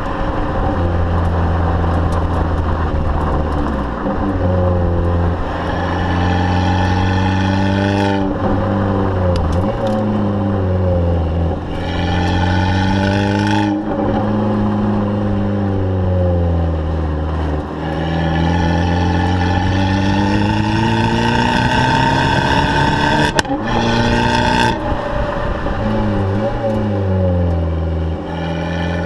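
Abarth 500's turbocharged four-cylinder exhaust, with the engine pitch climbing and dropping again several times as it is revved and let off. A single sharp pop from the exhaust comes about two-thirds of the way through.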